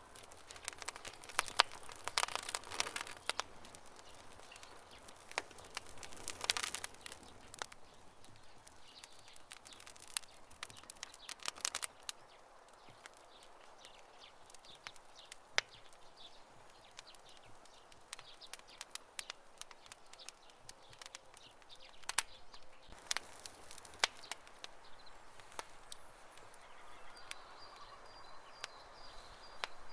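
Campfire crackling: irregular pops and snaps of burning wood, with a few denser flurries of crackling. A faint, steady high tone comes in near the end.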